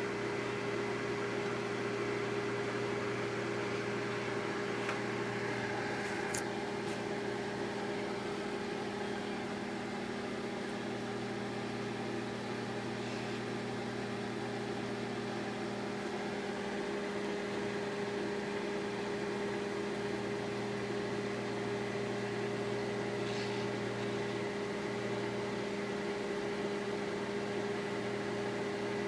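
Microwave oven running with a steady electrical hum and fan noise, with a few faint clicks along the way.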